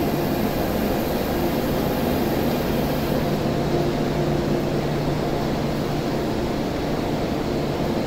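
MTR Tung Chung Line train rolling slowly along a far track and easing almost to a stop: a steady rumble with a constant low hum.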